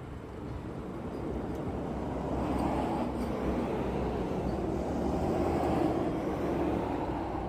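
A vehicle passing by, its rumble swelling from about a second in and easing off near the end.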